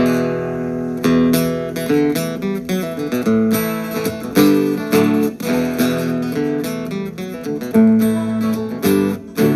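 Acoustic guitar strumming chords at a steady moderate pace, with a fresh strum about once a second: the instrumental introduction of a folk song before the vocals come in.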